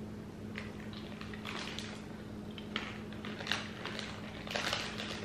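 Faint crunching of chewing on chocolate-covered corn puff balls with a crunchy shell, with light crinkles of a snack wrapper; the crackle thickens near the end.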